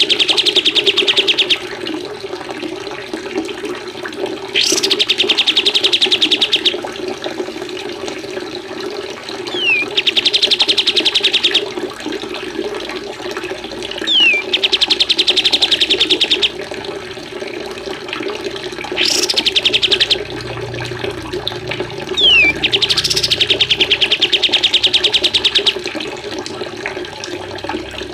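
A songbird repeating the same song six times, about every four to five seconds: a short falling whistle, then a fast, even trill lasting one to two seconds. A steady sound of running water plays underneath throughout.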